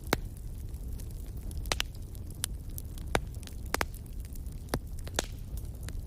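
Wood fire burning in a fireplace, crackling with sharp irregular pops over a low steady rumble of the flames.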